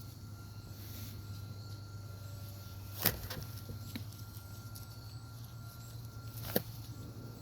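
Two sharp knocks about three and a half seconds apart, with a fainter tap between them, over a steady low hum.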